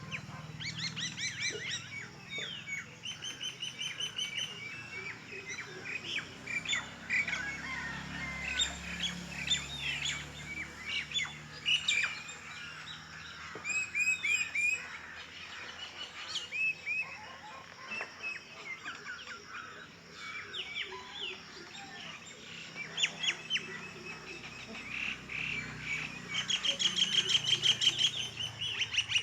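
Many birds chirping and singing together, short overlapping calls and trills, with one bird's fast repeated trill loudest near the end.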